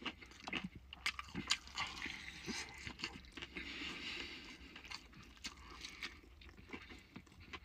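A person chewing and crunching fried chicken close to the microphone, with scattered short mouth clicks and a softer stretch of chewing midway.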